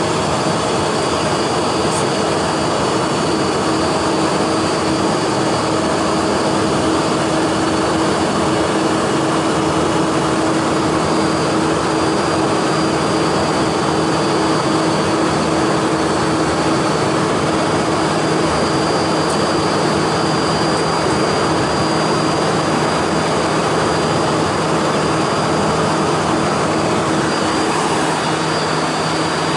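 Cabin noise of a Hawker 800 business jet in flight: a steady rush of airflow and drone from its two rear-mounted turbofan engines, with a few steady hums running under it.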